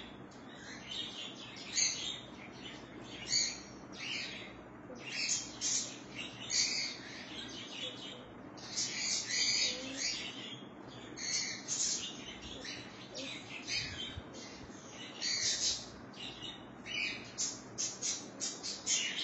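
Birds chirping: a busy, irregular series of short, high chirps.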